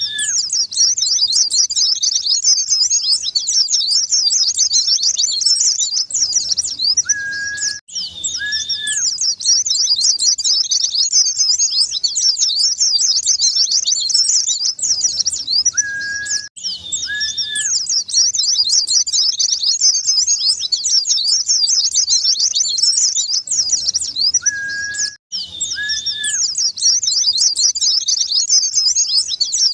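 White-eye (pleci) song: a fast, unbroken stream of high twittering chirps. The recording repeats about every eight and a half seconds, each time breaking off for a moment and bringing back the same pair of short, steady, lower whistled notes.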